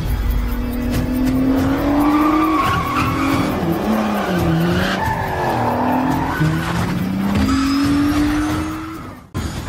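Car engines revving up and down repeatedly, with tyre squeal, over music; the sound drops away suddenly near the end.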